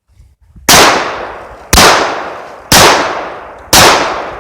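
Taurus 1911 pistol fired four times at a steady pace, about one shot a second, each loud report followed by a short echo.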